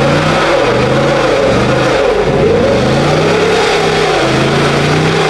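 Car engine revved hard over and over, its pitch climbing and dropping back about once a second, as a driver tries to spin the tires in a burnout.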